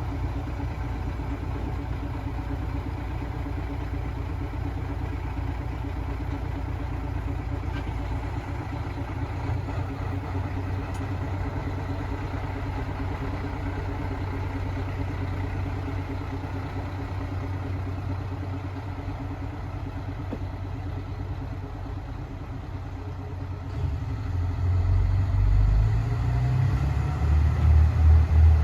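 Diesel railcar engine running with a steady low rumble. Near the end it grows louder and its pitch climbs in steps as it is throttled up.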